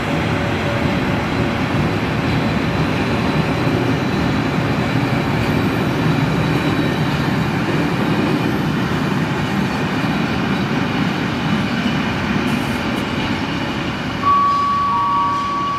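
Freight train of covered wagons rolling past as it pulls out, a steady rumble of steel wheels on the rails. About 14 s in, a steady high-pitched wheel squeal starts.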